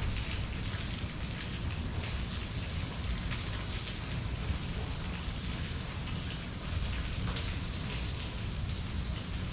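Steady rain falling, with many individual drops pattering on a surface over a low rumble.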